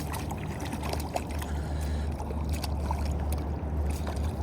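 Steady rush of fast-flowing river water with a low rumble underneath, and a few faint clicks.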